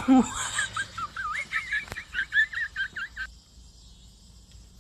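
A bird's quick run of wavering whistled chirps, rising and falling in pitch, that stops after about three seconds.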